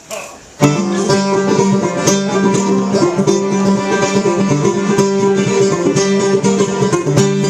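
Acoustic bluegrass band with mandolin and plucked strings coming in all at once about half a second in and playing the song's brisk instrumental intro.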